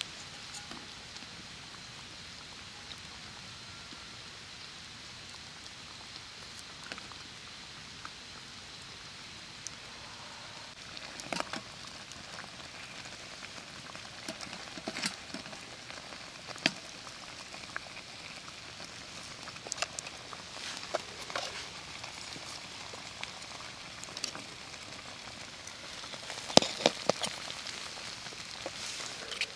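Campfire crackling: a steady soft hiss with scattered sharp pops, which come more often after the first third, with a burst of them near the end.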